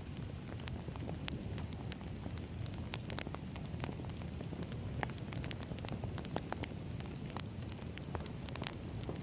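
Wood fire burning, with a steady low rumble and many irregular sharp crackles and pops of the logs.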